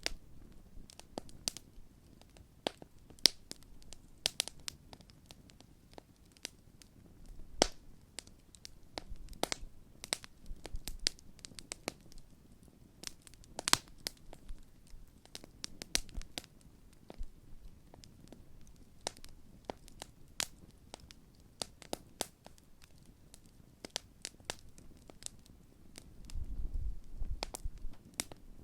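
Large open wood campfire burning, the wood crackling with irregular sharp pops, some louder than others, over the low rumble of the flames. A brief louder low rumble comes near the end.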